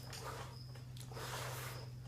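Soft breaths, or blowing, in slow swells of hiss over a steady low electrical hum.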